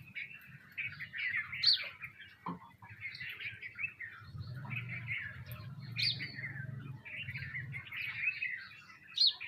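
A flock of sparrows chirping, many short chirps overlapping in a continuous chatter.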